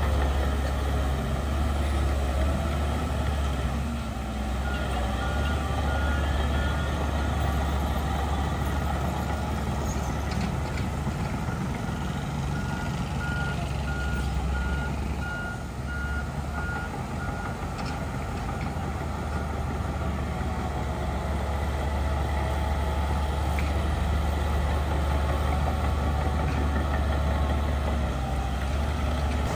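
Heavy diesel earthmoving machinery running steadily, with a reversing alarm beeping about twice a second in two stretches, a few seconds in and again around the middle.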